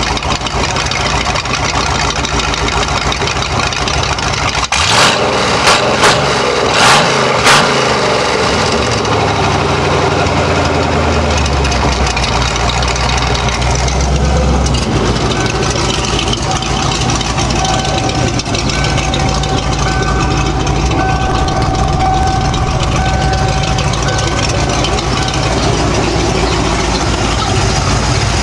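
1995 Ford Mustang GT's 5.0-litre V8, breathing through a Saleen Borla exhaust, idling. About five seconds in the throttle is blipped four times in quick succession, then the engine settles back to a steady idle.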